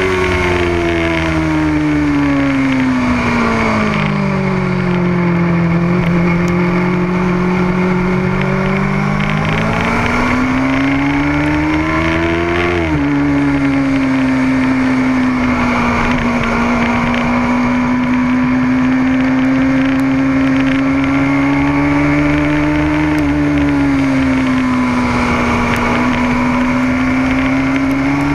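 Motorcycle engine running under way on a race track. Its pitch falls over the first few seconds and then climbs again, drops sharply about thirteen seconds in like a gear change, and then holds fairly steady with small rises and dips.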